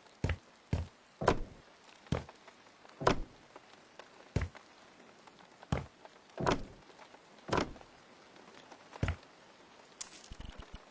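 A series of about ten sharp knocks at uneven intervals from hands-on renovation work, with a short rustle near the end.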